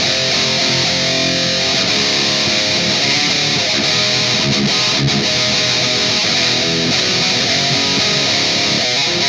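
Electric guitar riffing with a heavily distorted, metal-style tone, played without a break.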